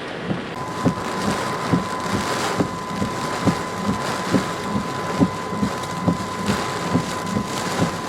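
Heavy hurricane rain and wind noise. A steady high-pitched tone starts about half a second in, and dull knocks repeat about twice a second.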